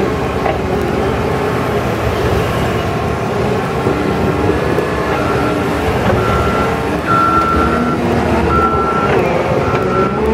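Heavy diesel machinery running steadily while hay bales are unloaded and stacked. About halfway in, a reversing alarm starts beeping, roughly once a second, as the machine backs up.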